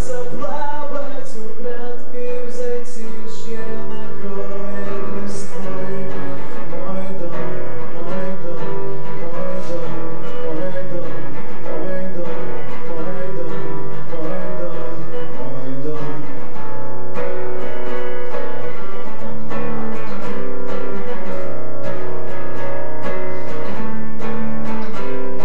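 Guitar playing the accompaniment of a song live, chords changing steadily through an instrumental passage.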